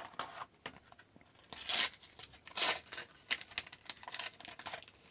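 A paper sticker pack being ripped open by hand: two loud tearing rips about a second apart, with crinkling and rustling of the wrapper and stickers around them.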